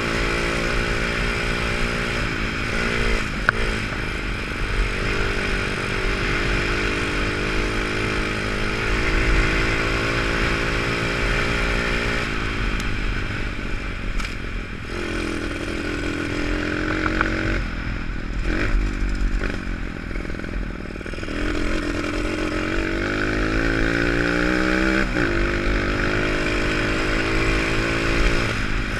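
Pit bike engine running under changing throttle as it is ridden, its pitch rising and falling with the revs and easing off twice in the middle.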